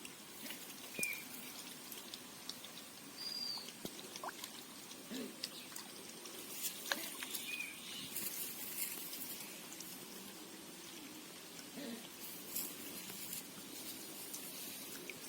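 Water trickling and pattering, with many small splashy clicks and a few short high chirps.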